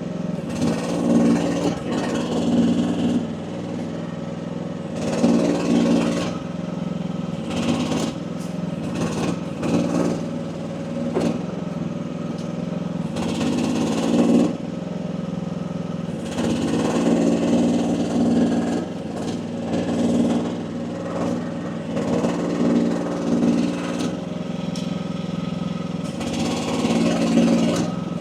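AGT WH12R mini excavator's engine running while its hydraulics work under load, the sound swelling every few seconds as the controls are worked, with occasional knocks. The relief pressure is set at about 2300 psi.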